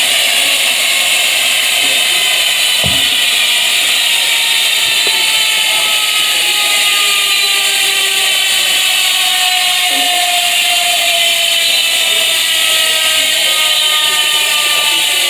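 Sword bicycle rear freehub with 6 pawls and 3-tooth engagement, its ratchet buzzing loudly as the wheel freewheels. The buzz holds steady while its pitch slowly drops as the wheel spins down.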